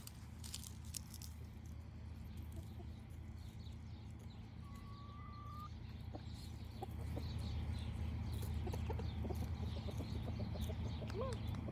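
Chickens clucking softly with a few scattered short calls, over a steady low rumble that gets louder a little past the middle.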